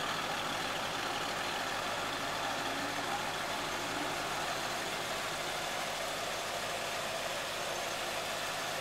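2003 Chevrolet Corvette Z06's LS6 V8 idling steadily.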